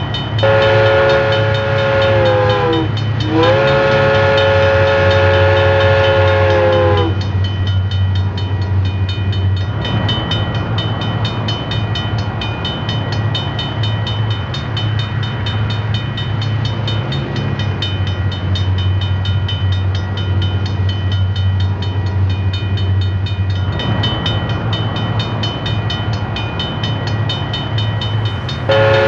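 Model train's horn sounding two long blasts, each sagging in pitch as it ends, with another blast starting at the very end. Under the horn, the miniature train runs with a steady hum and fast, even clicking.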